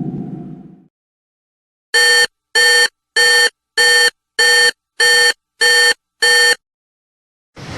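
Electronic alarm beeping: eight identical short, bright beeps, evenly spaced a little over half a second apart.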